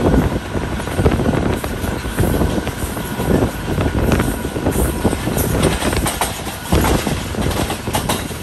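Passenger train running along the line: a steady rumble of wheels on rail with irregular knocks and rattles.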